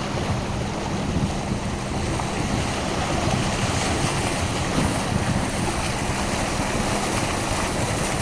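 Car driving through floodwater: a steady rush of water churned up around the car, with a low steady hum underneath.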